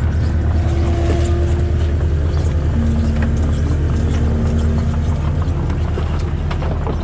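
Skid steer's engine running steadily, with a faint whine that drops in pitch about three seconds in.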